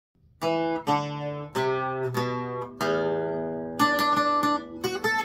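Ibanez AEG1812II twelve-string acoustic-electric guitar picking a requinto lead line. Single notes are each left to ring, starting about half a second in, and a quicker run of notes comes near the end.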